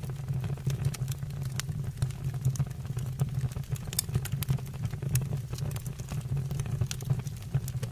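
Fire in a fireplace crackling, with many sharp pops scattered through a steady low rumble.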